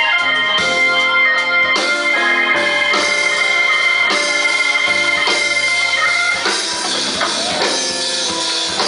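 Live band music with held organ chords to the fore and a high note sustained for the first six seconds.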